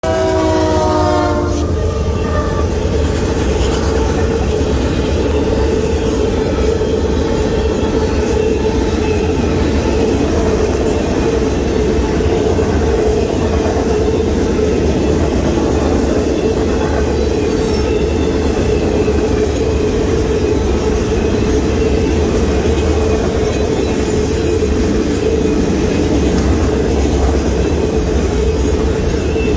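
Union Pacific freight train: the locomotive horn ends with a falling pitch in the first second and a half as the locomotive passes, then freight cars roll steadily through the crossing with a heavy low rumble and clatter of wheels. A steady high tone runs under it throughout.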